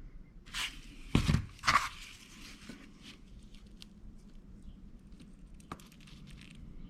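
Handling noises from a cut section of exhaust pipe with a hardened FiberFix wrap: a brief rustle, then two short scraping knocks about a second in, and a faint click later.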